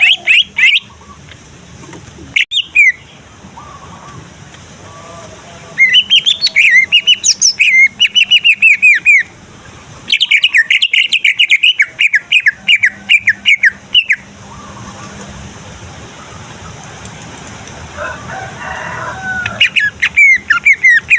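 Male cucak ijo (green leafbird) singing loudly in fast runs of quick, chattering notes, each run lasting a few seconds with short pauses between, the longest two running about four seconds each.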